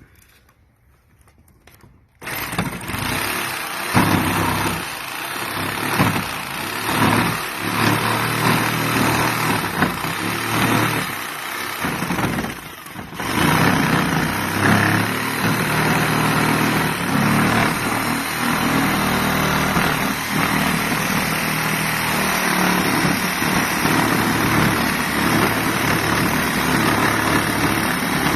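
Electric jigsaw cutting into a house's outside wall to enlarge a dryer vent hole, starting suddenly about two seconds in and running steadily with a brief dip near the middle.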